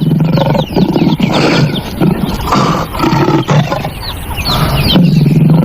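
Lion roaring, a loud run of roars and grunts that swell and fade several times.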